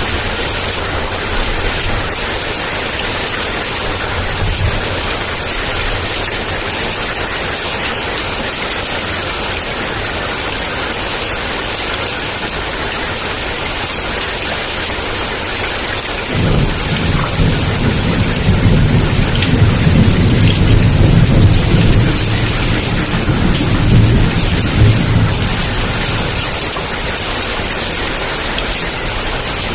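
Heavy, steady downpour of rain. A little past halfway a low thunder rumble builds, swells for several seconds and fades away.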